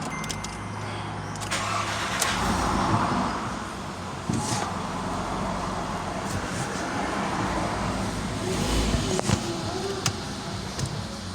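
Newly installed Volkswagen CFNA 1.6-litre four-cylinder petrol engine running steadily, with a few short clicks over the even hum.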